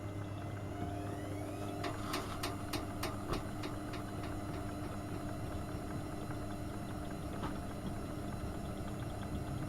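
AEG Öko-Lavamat 72520 washing machine running mid-cycle on a boil wash: a steady motor hum, a short rising whine about a second in, then a quick run of about six sharp clicks and one more click later.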